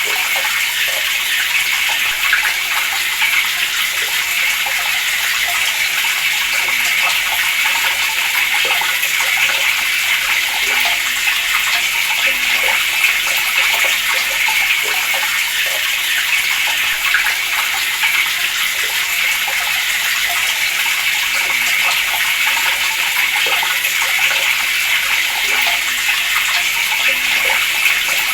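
Water running from a tap in a steady, unbroken splashing rush.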